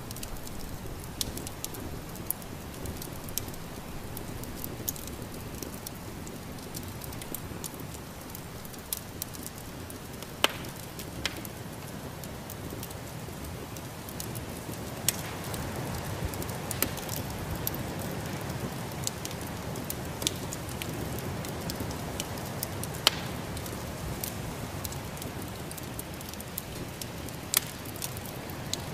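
Wood fire crackling in a fireplace, with scattered sharp pops over a steady hiss that grows a little louder about halfway through.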